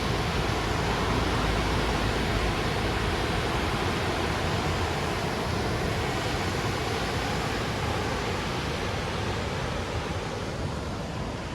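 Steady rush of the Lechfall waterfall on the Lech river, water pouring over the falls, easing slightly near the end.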